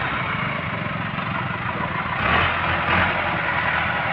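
Tractor diesel engine running steadily, swelling louder for about a second around two seconds in.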